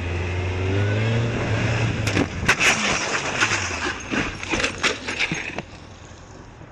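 A car's engine running with a low hum that rises slightly in pitch. About two seconds in, a cluster of sharp knocks and crunching impacts begins and lasts about three and a half seconds, like a road collision. After that only a quieter road hiss remains.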